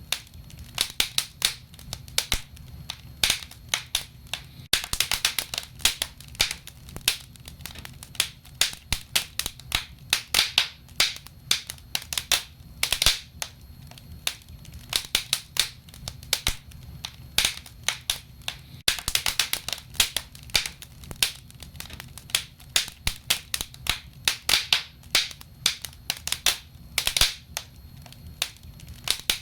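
Wood fire burning, crackling with frequent irregular sharp pops over a low steady rumble.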